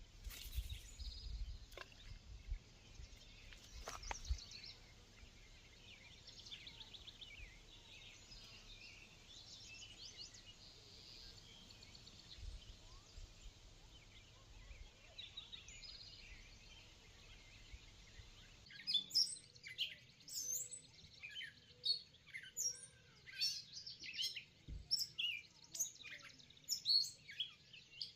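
Wild birds chirping and singing in many short high calls over a low rumble. About two-thirds of the way in the rumble stops, and the chirping becomes denser and louder.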